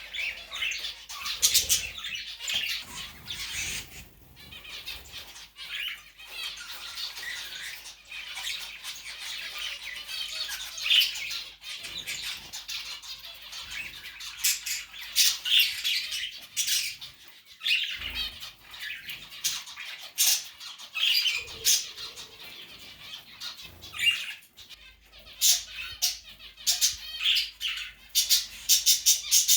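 Pet bird chirping and squawking in quick short calls, with runs of sharp ticks that come thick and fast near the end.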